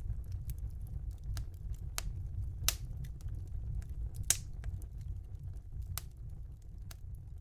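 Fire in a fireplace crackling: irregular sharp pops and snaps, two louder ones near the middle, over a low steady rumble.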